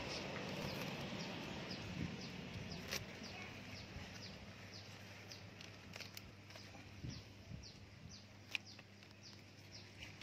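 A bird repeating a short, high, falling chirp about twice a second, over a faint steady low hum, with a few sharp clicks.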